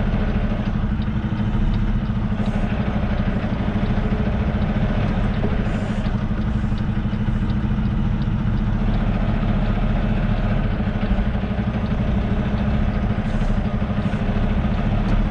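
Semi truck's diesel engine running steadily at low revs while the rig is slowly reversed into a loading dock, heard from inside the cab.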